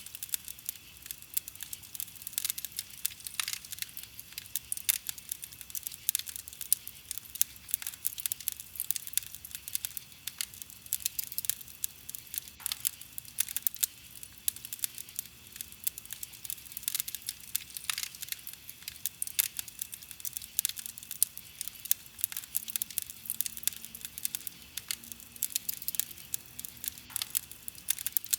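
Wood campfire crackling: a dense, irregular run of sharp pops and snaps, several each second, over a soft hiss of burning wood.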